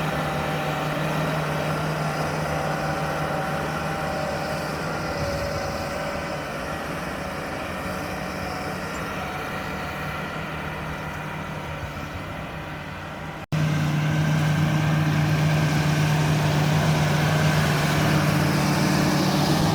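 A John Deere 8R-series tractor's diesel engine running steadily under ploughing load with a constant drone. About two-thirds of the way through it drops out for an instant and comes back louder.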